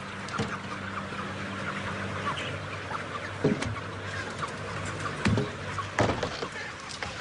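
A dense flock of broiler chickens clucking and peeping, many short chirps overlapping, over a steady low hum and a few sharp knocks.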